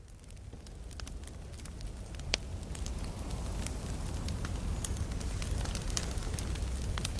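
Wood campfire crackling, with irregular sharp pops over a steady low rumble, fading in over the first two or three seconds.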